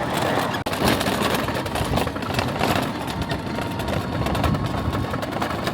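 Motor scooter running on the move, its engine noise mixed with wind rushing over the microphone. The sound cuts out for an instant about half a second in.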